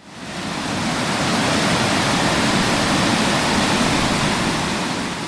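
Steady rushing of a waterfall, fading in over the first second and starting to fade out near the end.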